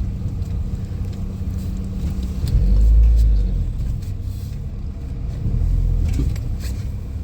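Van engine running and low road rumble as the van edges slowly into a parking space, with a louder swell of deep rumble about three seconds in and another near the end.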